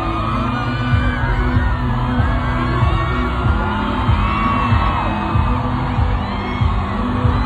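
Live pop music with a steady, heavy beat, loud throughout, with a large crowd singing along and cheering over it.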